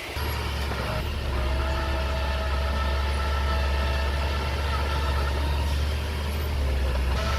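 Diesel engine of a Komatsu mini bulldozer running with a deep rumble and a steady whine above it, getting louder just after the start and again about a second in.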